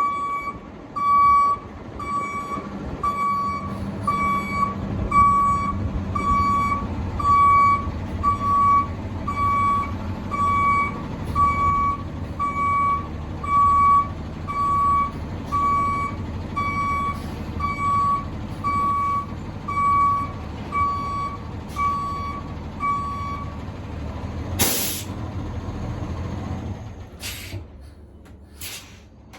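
Box truck reversing with its backup alarm beeping steadily, a little over one beep a second, over the diesel engine's rumble. The beeping stops, then a short loud hiss of air comes as the air brake is set. The engine rumble ends and two sharp clicks follow near the end.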